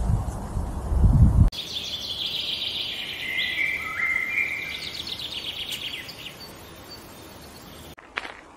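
A low, buffeting rumble of wind on the microphone, cut off after about a second and a half by birdsong: chirping trills that step down in pitch. Footsteps crunching on a gravel path start near the end.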